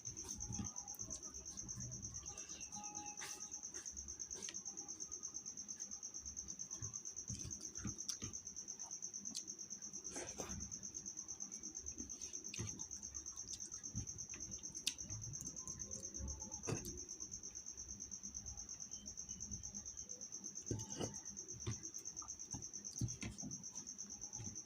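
Steady high-pitched insect trill, with scattered light clicks and knocks.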